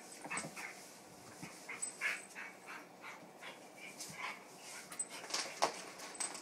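Two dogs play-wrestling, making short dog vocalisations in quick, irregular bursts.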